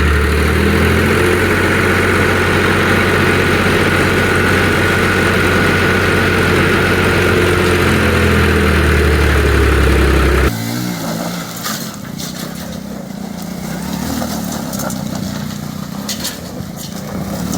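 Tractor diesel engine running steadily and loud, close to the microphone. It cuts off abruptly about ten seconds in, giving way to quieter outdoor noise with a fainter engine and scattered clicks.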